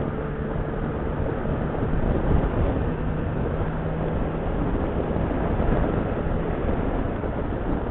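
Motorcycle engine running at low, steady revs, held back rather than opened up, under steady wind noise on the microphone.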